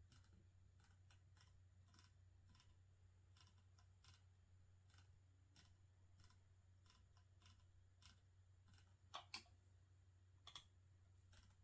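Faint, irregular computer keyboard keystrokes over a low steady hum, with a few louder clicks about nine seconds in and again about ten and a half seconds in.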